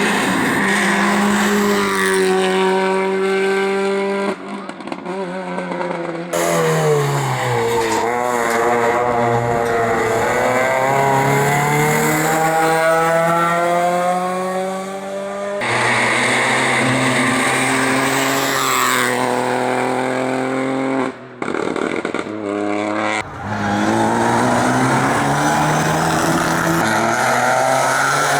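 Racing car engines under hard acceleration, revving up through the gears with the pitch rising and dropping at each shift and lift. The sound switches abruptly to a different car a few times.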